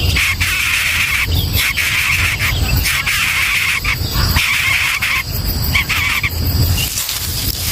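Outdoor nature ambience: a steady chorus of insects that drops out and comes back every second or so, over a low rumble.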